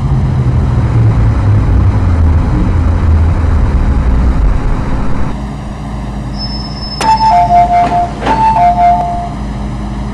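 MTR M-Train electric multiple unit braking to a stop, the traction motor hum falling in pitch over the first few seconds and then cutting out. A two-tone door chime, high note then low, sounds twice soon after.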